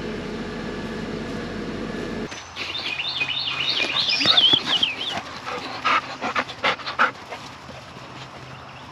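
A steady hum stops about two seconds in. A dog then whines and yips in a quick run of high, rising-and-falling cries, followed by a few sharp knocks.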